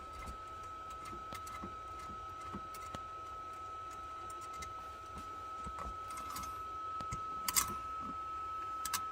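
A steady high-pitched tone sounds throughout over a low hum, with scattered light clicks of handling, two sharper clicks near the end.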